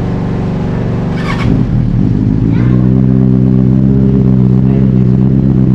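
Motorcycle engine idling on its stand. About a second and a half in, its note shifts, then it settles into a slightly louder, steady idle.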